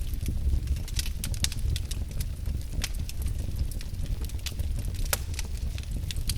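Wood fire in a fireplace crackling, with many irregular sharp pops and snaps over a low steady rumble of the flames.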